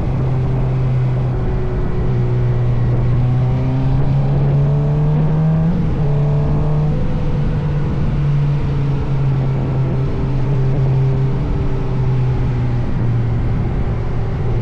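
Motorcycle engine running steadily under way, its note climbing for a couple of seconds and then dropping about six seconds in, as with a gear change.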